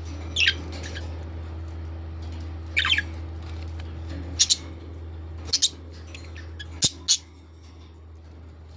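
Parrots squawking: short, loud, high-pitched calls, some in quick pairs, spaced a second or two apart, over a steady low hum.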